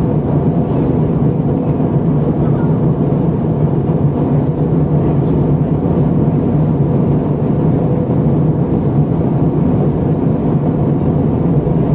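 Steady cabin noise inside a Jetstar Airbus A320 in flight: the even rumble of engines and rushing air, strongest in the low range, with no changes.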